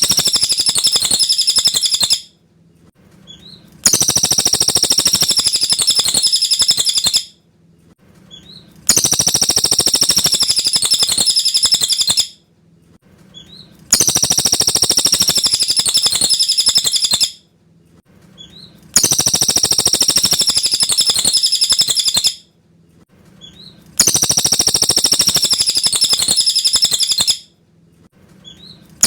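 Cililin bird singing loud, clear trilled song phrases, each about three seconds long and repeated the same every five seconds, with a few faint chips in the short pauses between.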